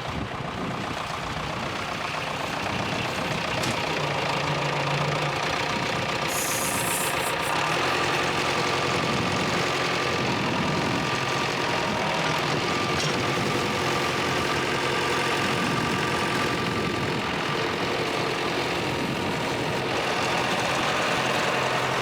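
Pit bike engine running, its carburettor not yet tuned.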